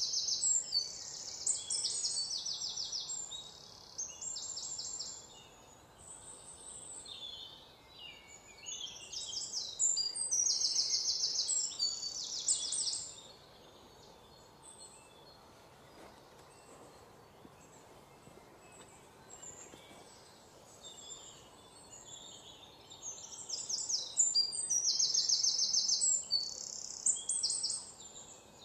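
Small birds chirping in fast, high-pitched trilling phrases, in three bouts of a few seconds each with quieter gaps between.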